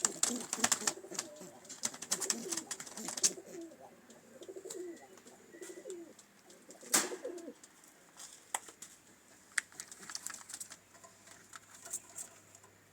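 Pigeons cooing, low warbling coos through roughly the first seven seconds, among scattered sharp clicks and taps, with one louder knock about seven seconds in.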